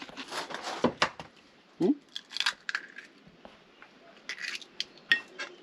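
A spoon or fork clinking and scraping against a bowl as a grated potato and courgette fritter mix is stirred. Irregular clicks and short scrapes are heard, with a brief low squeak about two seconds in.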